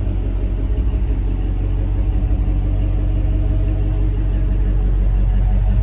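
Vehicle engine running steadily at idle, a loud low rumble with a fast, even pulse.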